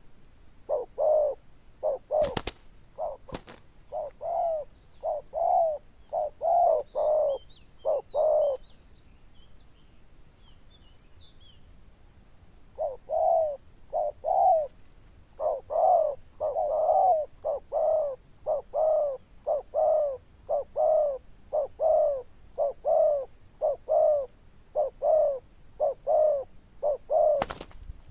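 Spotted dove (cu gáy) giving its rapid bow-coo: short, loud coos repeated about two a second, in two bouts with a pause of a few seconds between them. A few sharp clicks and faint chirps from small birds sound now and then.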